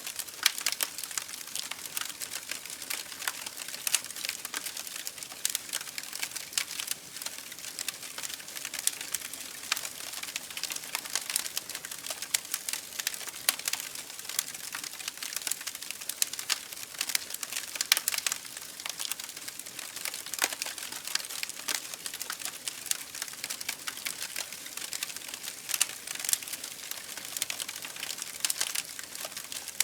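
Campfire burning with dense, irregular crackling and sharp pops of burning wood.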